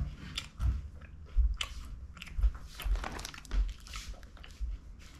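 A person chewing a mouthful of crunchy Mars Pods close to the microphone: a run of crisp crunches, one every half second or so.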